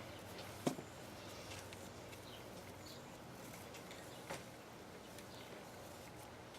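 Quiet handling sounds of a wire-cored paper ribbon being wrapped around a stick, with a sharp click about two-thirds of a second in and a softer one a little after four seconds.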